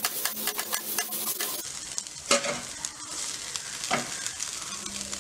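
Grated potato sizzling in oil in a non-stick frying pan while it is stirred and scraped with a spatula. The strokes come thick and fast for the first second and a half, with two louder single scrapes about two and a half and four seconds in.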